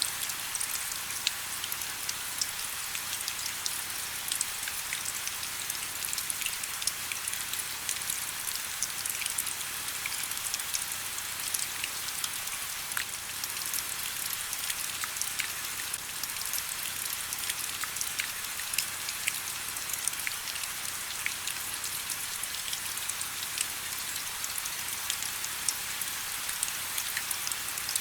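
Steady rain: an even, high-pitched hiss dotted with many small droplet ticks.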